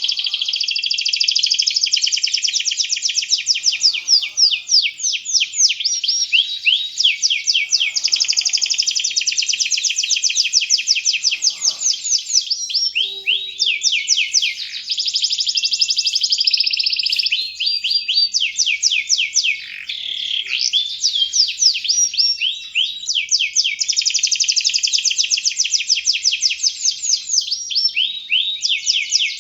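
Domestic canary singing vigorously: a long, continuous song of rapid trills, one run of fast repeated high notes after another, with only brief breaks.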